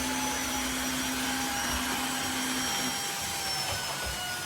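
Tineco iFLOOR 3 cordless wet-dry floor vacuum running, switched to its lower-power eco mode. Its motor whine slowly sinks in pitch, and a low hum under it stops about three seconds in.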